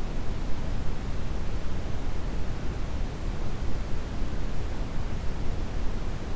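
Steady brown noise: an even, deep hiss with most of its weight in the low end.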